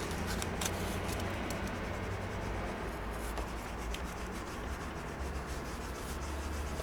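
A hand tool scraping and rubbing against a freshly applied, still-wet cement patch, cutting it into shape, in a continuous rough scratching with a few sharp ticks. A steady low hum runs underneath.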